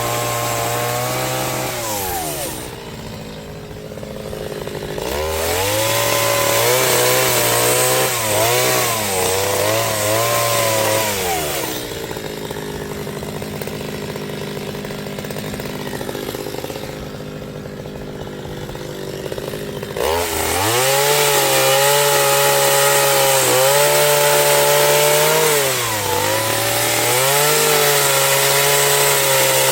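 Two-stroke chainsaw revving up to full throttle and sagging slightly under load as it cuts wood. It drops back to idle between cuts, with three revved stretches in all.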